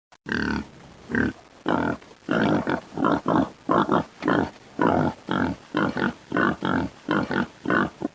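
Domestic pig grunting and oinking in a steady series of short calls, about two a second.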